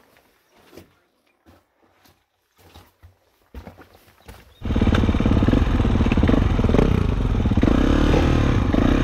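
A few faint clicks and knocks, then about halfway in a dirt bike engine comes in suddenly and loud, running with its pitch rising and falling as the throttle is worked.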